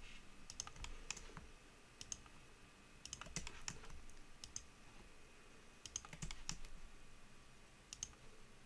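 Faint keystrokes on a computer keyboard: short clicks in scattered clusters, a few keys at a time.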